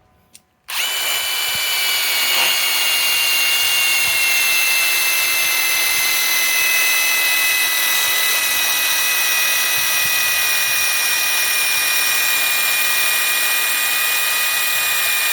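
Ryobi PSBIW25 compact impact wrench driving a lag screw into wood, starting up less than a second in and running without a break. Its high whine sinks slowly as the screw bites deeper and the tool works under heavy load.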